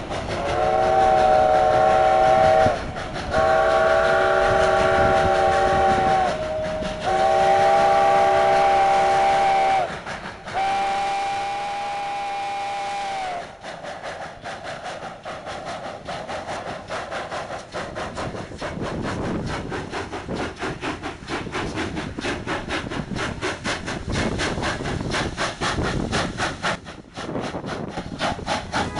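Chime steam whistle of a Durango & Silverton narrow-gauge coal-fired steam locomotive sounding four long chord blasts. After them the locomotive's exhaust chuffs in a steady beat that quickens as the train pulls away.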